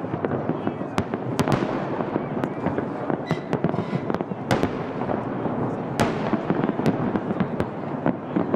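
Aerial firework shells bursting: many sharp bangs at irregular intervals over a dense, continuous crackle.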